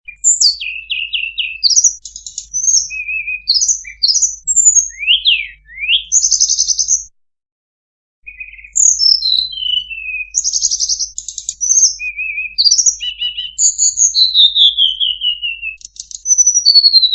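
Tledekan (flycatcher) song used as a bird-trapping lure: a fast, varied run of high whistles, short trills and downward-slurred notes. The song stops for about a second some seven seconds in, then resumes and ends in long falling notes.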